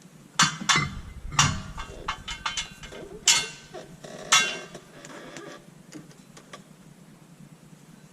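Metal tools and parts clinking and knocking together in a dozen or so irregular sharp strikes, bunched in the first half, then a few faint clicks.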